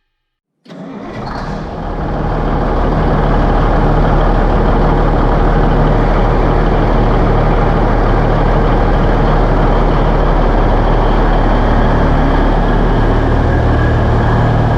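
Heavy diesel engine of construction equipment running steadily under load, cutting in abruptly less than a second in, with a strong low steady hum.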